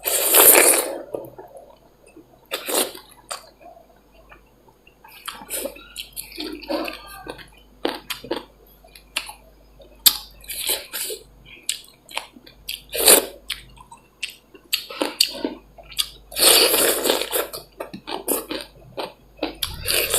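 Close-up eating sounds of dal bhat and chicken: irregular wet chewing and lip smacking, with a few short sharp clicks.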